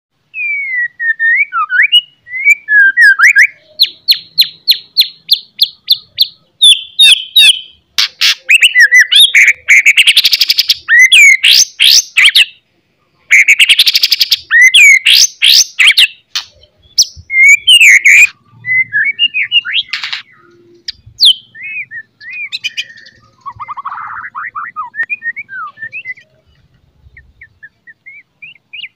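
A songbird singing a loud, varied song of rapid trills, fast runs of repeated notes and whistled phrases, broken by short pauses; the song grows fainter and sparser in the last few seconds.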